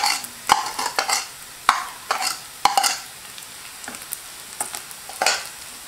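Sliced shallots and chopped garlic sizzling in hot coconut oil in a clay pot, stirred with a wooden spatula. A wooden spatula scrapes across the pot in quick strokes about every half second for the first three seconds, then once more near the end.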